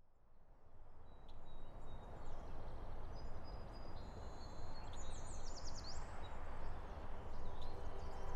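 Outdoor ambience fading in: a steady low rumble with small birds chirping over it, including a quick run of rising chirps about five seconds in.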